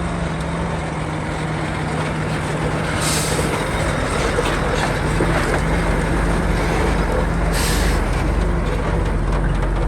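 Heavy diesel earthmoving machinery running steadily with a low hum, and two short hisses of air, about three and seven and a half seconds in.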